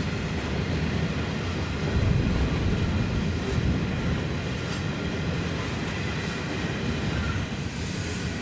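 An empty coal train rolling past on a downgrade, a steady rumble of wagons on the rails.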